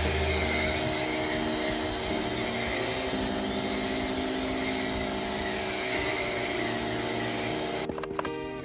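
Pressure washer running and spraying water, a steady hiss over the motor's hum, which drops away abruptly near the end.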